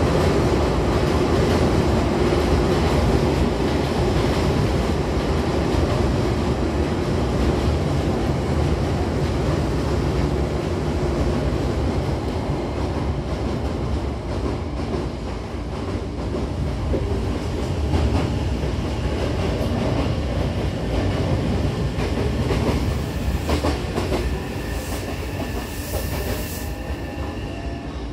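Hankyu Takarazuka Line train running, heard from inside the carriage: a steady rumble of wheels on the track with rail-joint clacks, which come more often in the last third. A thin high wheel whine joins in near the end.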